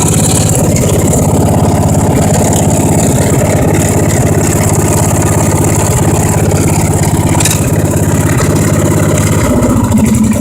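Old garden tractor's single engine running steadily at idle, loud and even; the note changes about a second before the end.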